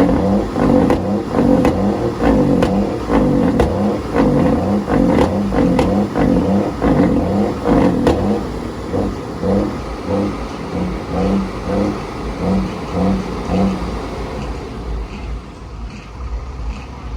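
Truck engine running and revving, with a regular pulsing about twice a second and rising and falling pitch sweeps, growing fainter over the last few seconds.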